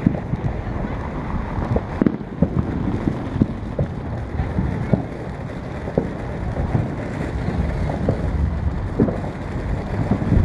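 Ground fountain firework burning: a steady rushing spray of sparks with scattered pops and crackles.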